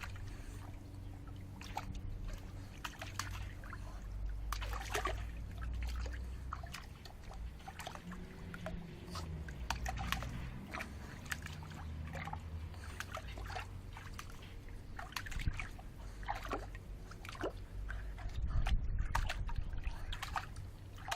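A small dog splashing and sloshing in the shallow water of a bird bath: irregular splashes and trickles, over a low rumble.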